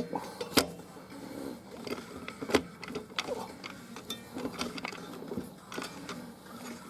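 Scattered metal clicks and knocks, the two loudest about half a second and two and a half seconds in, as a part is handled and set down into a 700R4 transmission case.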